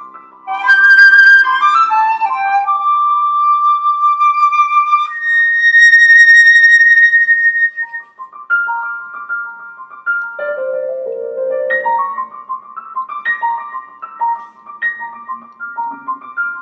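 Flute and piano playing a contemporary classical chamber piece: quick flute phrases, a long held high flute note about five seconds in, then short, quick notes over the piano.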